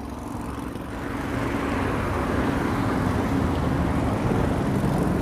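Road traffic: a motor vehicle's engine hum and tyre noise, growing louder over the first two seconds and then holding steady.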